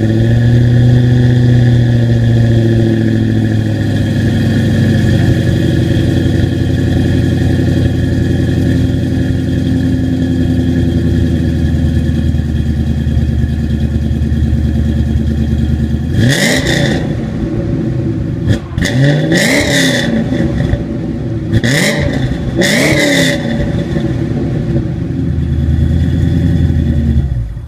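Mustang V8 with long-tube headers, an off-road H-pipe without catalytic converters and Flowmaster American Thunder mufflers, idling loudly and steadily, then blipped up and back down four or five times in quick succession past the halfway point before settling back to idle.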